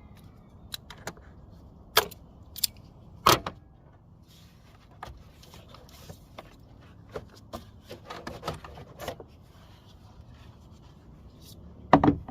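Scattered clicks, knocks and light rattles of parts and tools being handled in a car's engine bay, while the intake is taken apart to reach the number 3 fuel injector wiring. The loudest knocks come about two and three seconds in and just before the end, with a run of small clicks in between.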